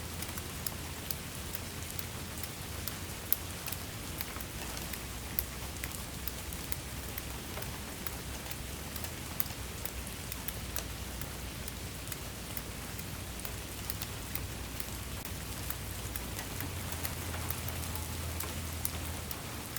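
Steady rain, with many separate drops ticking sharply against a surface.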